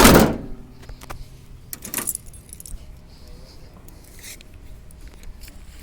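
A loud metallic clank at the start that rings off over about half a second, then a softer clink about two seconds in and a light, high jingle a little after four seconds.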